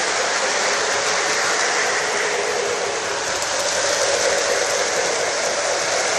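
Lionel Great Northern toy steam train set running on its track: a steady rushing noise from the locomotive as it runs.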